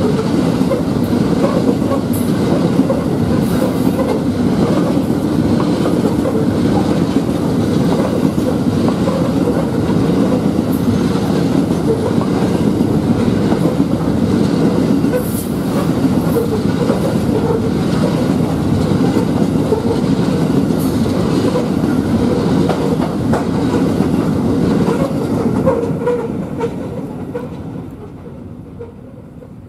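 Loaded narrow-gauge grain hopper wagons rolling past close by: a steady rumble of wheels on rail with scattered clacks, fading away near the end as the last wagons pass.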